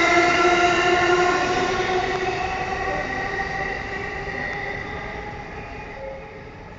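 Electric train at a station platform: a steady, high, many-pitched squeal or whine over rumble, loudest at first and fading steadily over several seconds.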